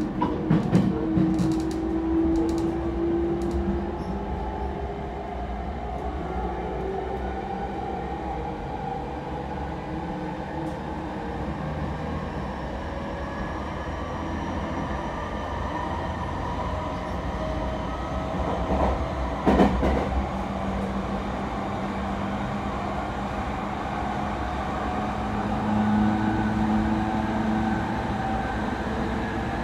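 Cabin sound of an E231 series commuter train under way: the Mitsubishi IGBT-VVVF inverter and traction motors whine in several tones that slowly rise in pitch as the train gathers speed, over a steady wheel-and-rail rumble while it crosses a steel truss bridge. Several sharp wheel clicks over rail joints in the first few seconds, and one louder knock about two-thirds of the way through.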